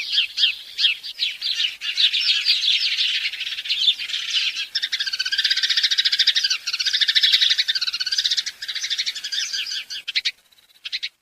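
Many small birds chirping together, rapid repeated chirps that thicken into a dense, overlapping chorus before stopping abruptly near the end.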